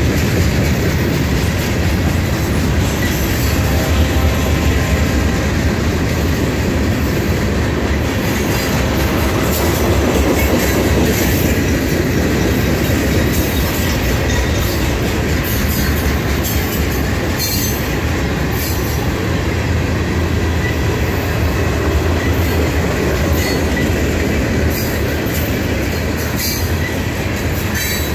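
Freight train cars, mostly covered hoppers, rolling past close by: a steady, loud rumble of steel wheels on the rails, with a few brief sharp high noises near the middle and end.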